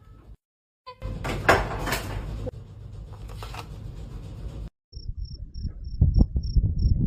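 Short clips spliced together: first a rattling, knocking noise with a sharp knock about one and a half seconds in, then a cricket chirping steadily about four times a second over low thuds that grow louder near the end.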